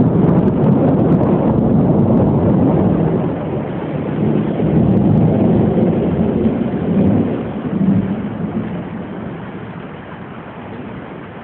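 A long roll of thunder rumbling loudly, then fading away over the last few seconds, with rain in the background.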